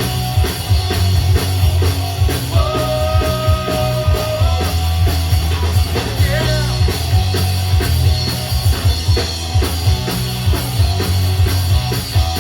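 Punk rock band playing live: an instrumental passage of fast, steady drums with distorted electric guitar and bass, no singing, and a held guitar note a couple of seconds in.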